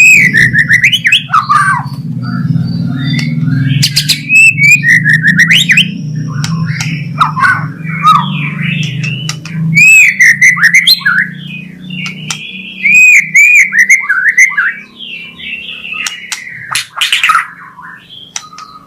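White-rumped shama (murai batu) singing a varied, loud song of whistled phrases and glides, broken by sharp clicks and harsh rasping besetan calls. A low hum runs underneath and fades out near the end.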